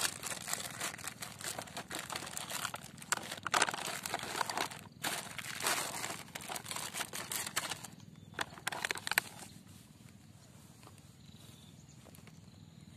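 Crinkling, crackling rustle with many sharp clicks, as of dry material being handled and moved about. It dies down about nine seconds in, leaving a faint hiss.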